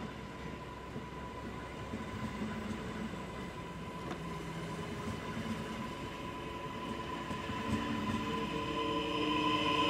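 A train approaching through the station, growing louder over the last couple of seconds, with a steady high whine throughout.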